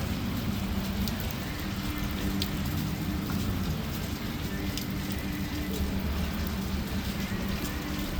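Heavy rain pouring down steadily, with a few sharp ticks of drops hitting something close by.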